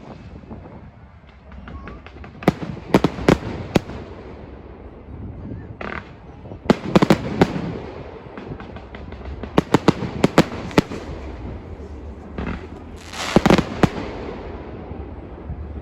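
Fireworks display: clusters of sharp bangs from bursting shells every few seconds, over a continuous low rumble.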